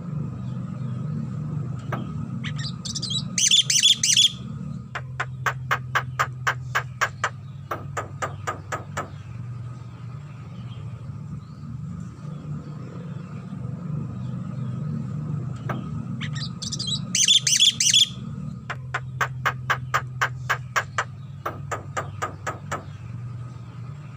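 Javan myna (jalak kebo) singing: a short burst of high call notes, then a run of sharp clipped notes at about four a second. The whole phrase comes twice, over a steady low hum.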